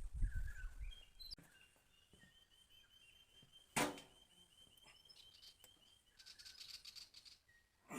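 Faint birds chirping in the background, with a few dull thuds at the start and one sharp knock about four seconds in.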